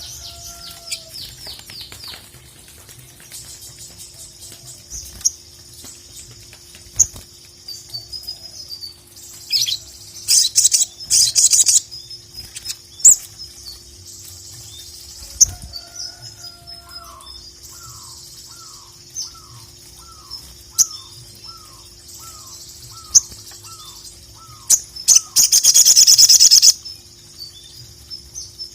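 Sogon (sogok ontong) songbird singing a loud, busy high-pitched chatter, with sharp shrill bursts about ten seconds in and again near the end, and a run of about a dozen short, evenly spaced falling whistles in the middle.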